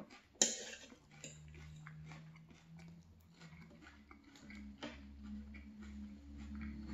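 Close-up chewing of a mouthful of fried fish and rice, with many small wet mouth clicks. A sharper clink of cutlery on the plate comes about half a second in, and a low steady hum sits under the chewing from about a second in.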